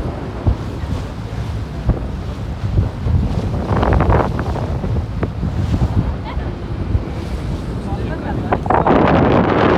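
Wind buffeting the microphone on a moving boat over the rush of water past the hull, with a louder surge of rushing water near the end.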